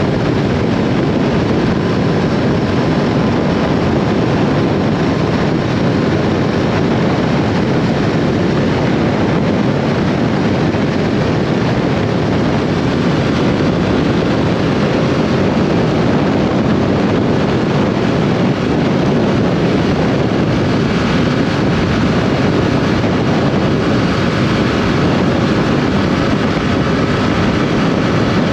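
Yamaha R7's parallel-twin engine running while the motorcycle is ridden, mixed with a steady rush of wind over the microphone.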